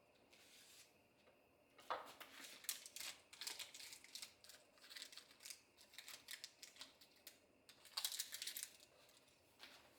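Soft kitchen handling sounds: a quick run of small clicks, taps and rustles, busiest about eight seconds in.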